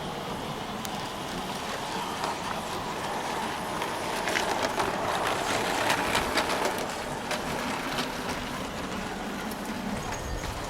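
Model train running on a layout's track: a steady rumble with a run of sharp clicks and a louder stretch about four to seven seconds in.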